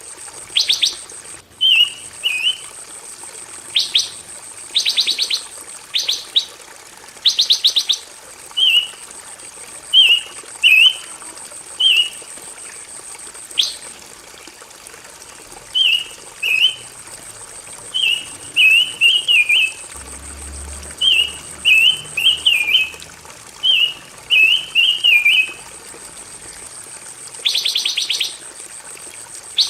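A pancawarna songbird singing: short warbled chirping phrases repeated again and again, broken by several fast rattling trills, the loudest just after the start and near the end. A steady thin high tone runs underneath and stops about three quarters of the way through.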